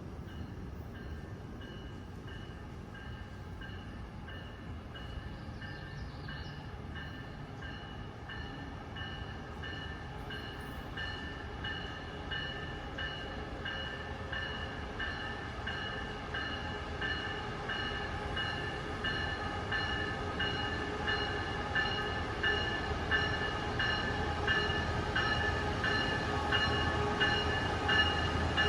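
MARC commuter train approaching, its locomotive bell ringing in a steady, even rhythm over a low rumble, both growing louder as it nears.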